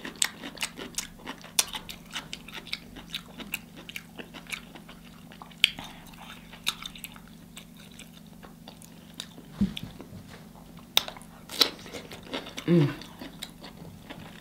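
Close-up mouth sounds of biting and chewing crunchy cucumber coated in seafood-boil sauce: many sharp wet clicks, smacks and crunches, over a steady low hum. A brief hummed "mm" comes near the end.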